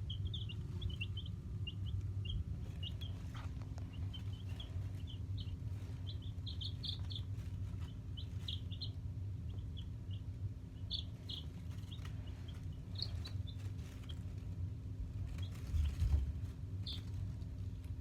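Baby chicks peeping: many short, high cheeps in quick runs, over a low steady hum.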